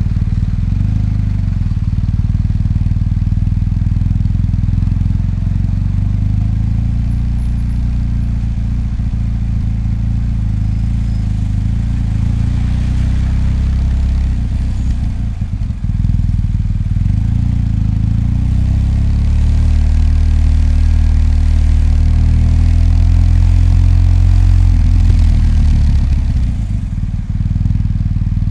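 BMW R 1250 GS boxer-twin engine running with a low, steady note, dipping briefly twice and running louder for several seconds past the middle as the throttle changes.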